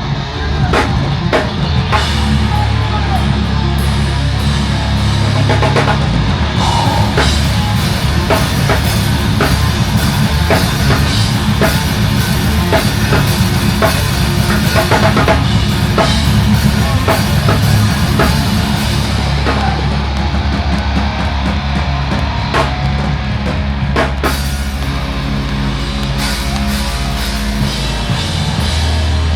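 Loud heavy rock music with a full drum kit and distorted electric guitars playing hard and fast, ending abruptly.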